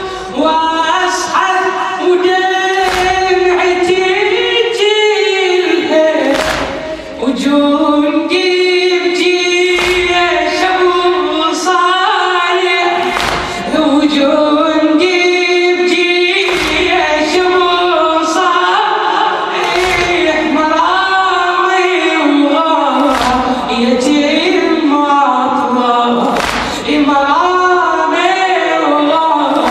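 Congregation chanting a Shia mourning latmiya refrain together, with a steady beat of sharp chest-beating slaps about every second and a half to two seconds.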